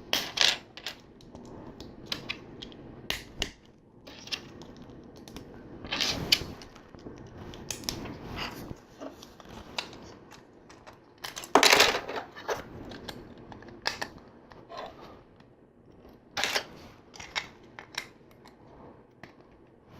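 Plastic LEGO pieces clicking and rattling as they are handled and pressed together, irregular small clicks with a few louder clacks spread through.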